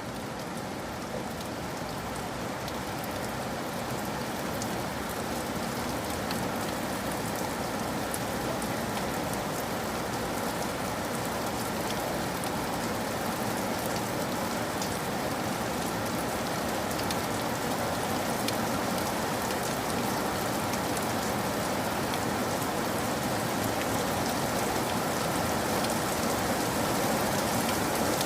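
Rain falling steadily, with many scattered sharp drop ticks, slowly growing a little louder.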